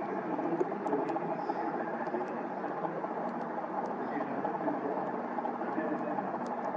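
Aircraft engine running, a steady rumble with faint steady tones in it.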